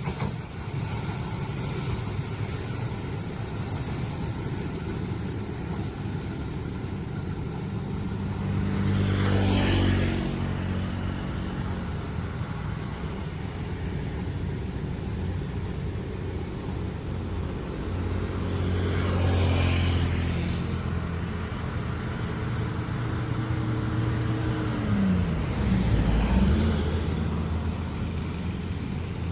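Road traffic: motor vehicle engines running at a low, steady pitch, with three vehicles passing close by, one about ten seconds in, one near the middle and one near the end whose engine pitch drops as it goes past.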